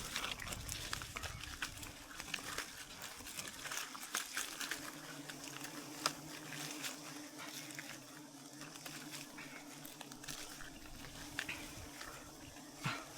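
Steady hum of a swarm of honey bees around a wild hive, with scattered sharp clicks and crackles throughout.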